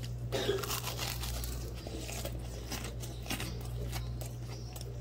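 Crunching of a breaded, deep-fried chicken wing being bitten into and chewed, an irregular run of crisp crackles.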